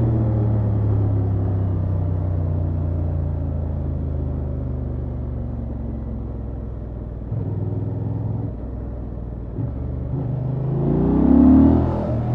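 Honda XL750 Transalp's parallel-twin engine on its stock exhaust, running steadily and slowly easing off over several seconds. The engine note breaks briefly a few times, then rises sharply and peaks loudest near the end.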